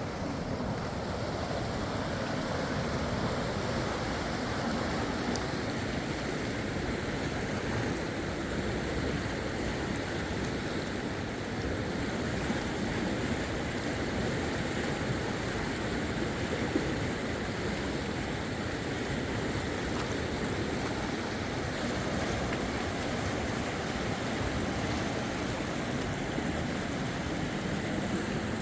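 Fast river water rushing steadily.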